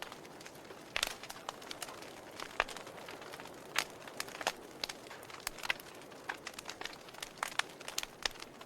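Wood fire crackling: a soft steady hiss with frequent sharp, irregular pops and snaps.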